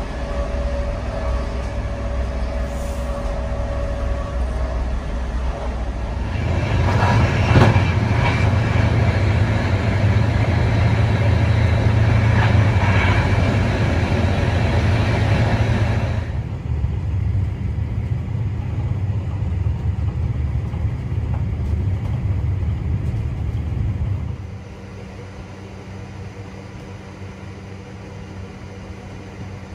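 Intercity train running, heard from inside a passenger carriage: a steady low rumble. About six seconds in it grows louder, with a rushing noise for roughly ten seconds. Near the end it drops suddenly to a much quieter low hum.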